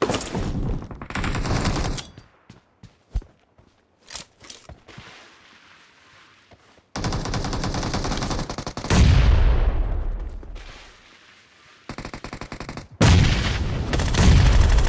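Video-game gunfire: bursts of rapid automatic fire with a few single shots between. About nine seconds in there is a heavy boom that fades out, and near the end comes another loud burst of fire with a deep low rumble.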